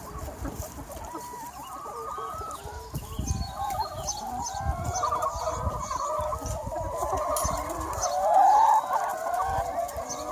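A large free-range flock of hens clucking, many overlapping calls at once, with one louder drawn-out call a little past eight seconds in.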